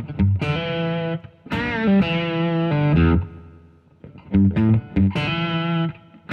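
Harley Benton JA-60 Jazzmaster-style electric guitar with single-coil pickups, played through an overdrive or distortion pedal: ringing chords and single notes with a wavering bend about a second and a half in, a brief pause near the middle, then more chords.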